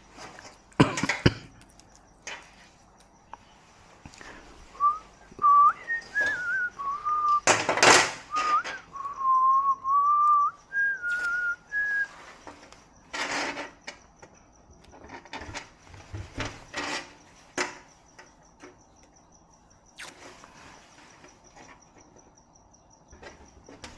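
A person whistling a short tune, one clear note stepping up and down for about seven seconds, among several sharp knocks and clicks, the loudest about a third of the way in.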